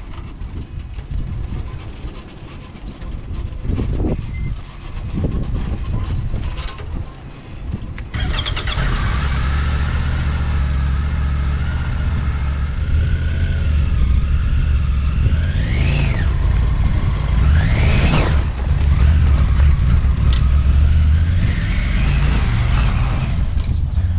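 Triumph Tiger 900 GT's three-cylinder engine starting about eight seconds in and then running steadily, with two quick throttle blips that rise in pitch a little past the middle. Irregular knocks and rumbling come before it starts.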